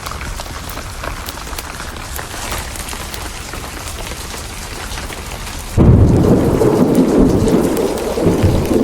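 Steady heavy rain, then about six seconds in a sudden loud clap of thunder that keeps rumbling low over the rain.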